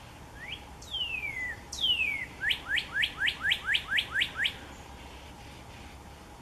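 A songbird singing one phrase. It opens with a short rising note, then two long downward-sliding whistles, and ends in a quick run of about nine rising notes, about four a second.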